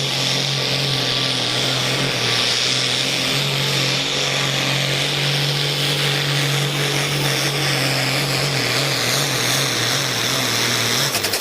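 Pulling tractor's engine running flat out under load as it drags the weight-transfer sled down the track, a steady, loud drone that wavers slightly late on and cuts back sharply at the end as the driver lets off.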